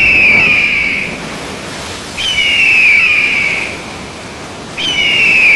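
Bird of prey screaming: three long, raspy, slightly falling screams, about two and a half seconds apart.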